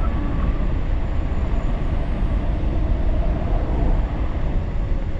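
Wind buffeting the microphone while riding a 1500 W Leafbike hub-motor e-bike, with a faint steady motor whine underneath that sags slightly in pitch near the end.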